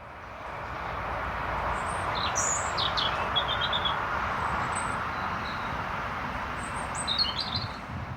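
Small birds chirping and twittering a few times, around two to three seconds in and again near the end, over a louder steady rushing noise that swells in at the start and eases off at the end.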